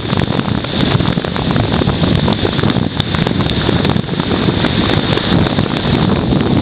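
Strong wind blowing hard across the microphone in a severe thunderstorm, a loud steady rush with crackles and pops running through it.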